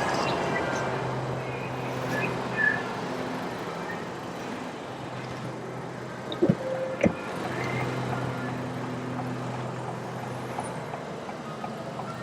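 Steady low hum of a running vehicle, with two sharp clicks about six and a half and seven seconds in.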